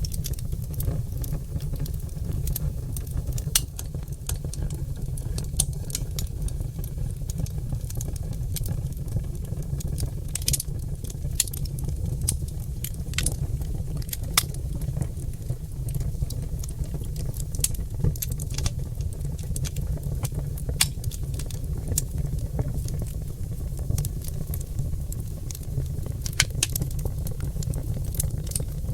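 Oak logs burning in a fireplace, crackling with irregular sharp pops and snaps over a steady low rumble of the flames.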